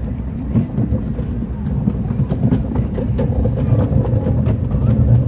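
Small park train rolling along its track, heard from aboard: a steady low rumble of the cars, with frequent short clicks and knocks from the wheels and couplings.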